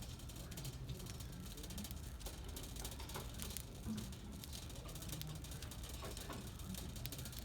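Shopping cart rolling across a store floor, its wheels rattling and ticking steadily.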